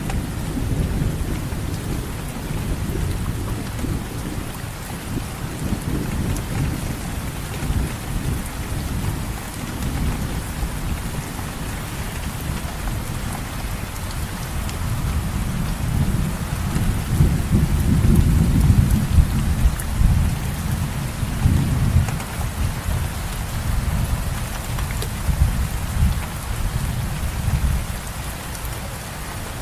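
Steady rain falling, with a low rolling rumble beneath it that swells about halfway through and fades toward the end.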